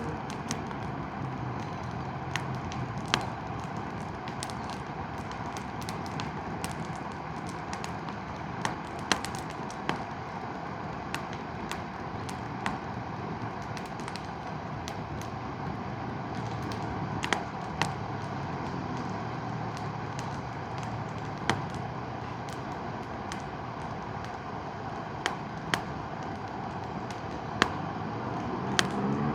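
Campfire crackling, with sharp irregular pops, over the steady rush of a mountain river.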